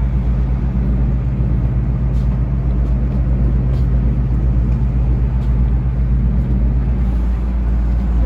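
Cruise boat's engine running steadily, a deep hum of constant pitch, with rushing noise over it.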